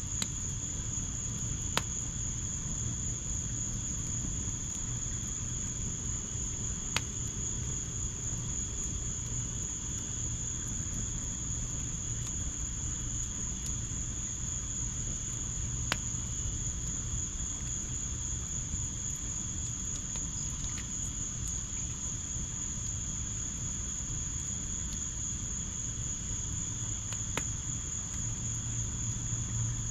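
Crickets chirring in a steady high-pitched chorus over a low steady rumble, with an occasional sharp pop from the fire pit's burning fire, about five in all.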